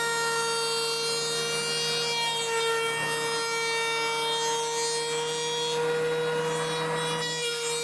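Electric power saw running and cutting through oak pallet wood: a steady motor whine that dips slightly in pitch twice as the blade takes the load.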